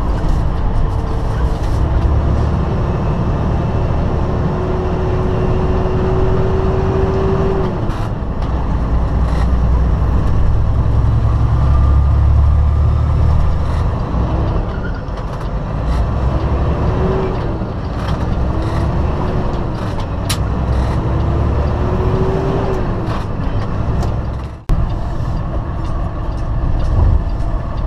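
Semi-truck diesel engine heard from inside the cab while pulling away, a steady heavy rumble with the engine note rising for several seconds and then dropping at a gear change, then climbing and dropping again through several quicker shifts. The sound cuts out for an instant about three-quarters of the way through.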